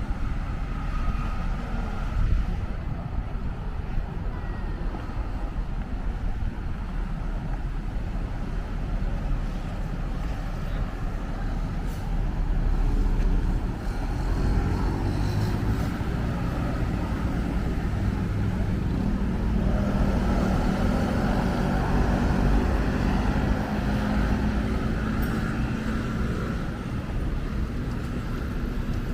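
Road traffic: vehicle engines and tyres rumbling steadily. About halfway through, a heavier engine's drone comes in and holds until near the end.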